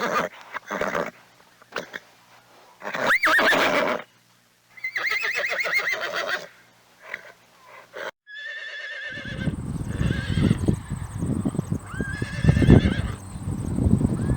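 Horses neighing and whinnying several times, each call a loud, quavering cry that falls away. A little after 8 s the sound changes to another whinny, over low thuds and rustling and a faint steady high tone.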